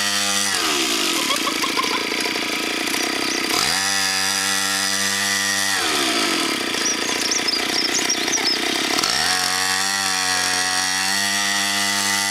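Mini dirt bike's small engine being revved up and let back down to idle as the throttle is opened and closed. It is high at the start and drops within the first second, then rises and holds for about two seconds twice more, falling back near the end.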